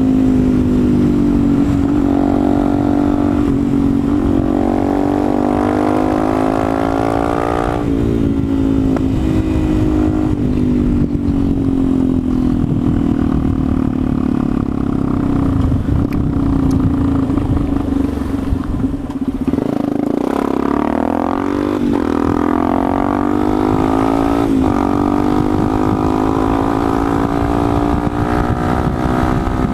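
Motorcycle engine running under way, its pitch rising and falling with throttle and gear changes. The revs drop about eight seconds in, then dip and climb again about twenty seconds in.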